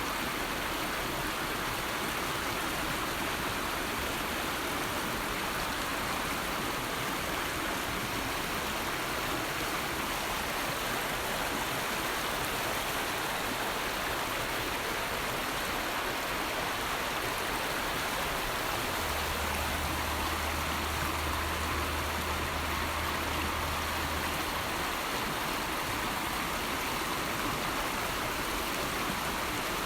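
River water flowing steadily, an even rushing sound with no breaks. A low steady hum joins for about six seconds in the second half.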